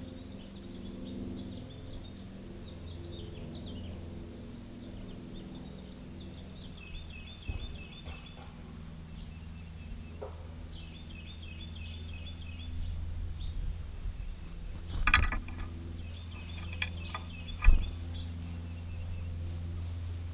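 Songbirds calling in runs of quick, repeated high notes several times, over a steady low hum. A few sharp knocks, the loudest two about fifteen and seventeen and a half seconds in.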